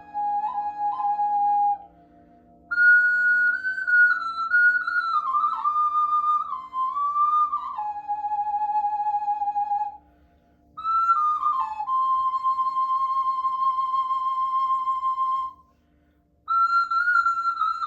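A flute playing slow, held and sliding notes in three long phrases, with short breaks between them, over a low pulsing drone.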